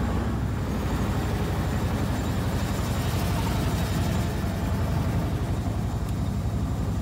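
Engine of a pre-1905 veteran car running as the car drives, heard from on board, with a fast, even beat.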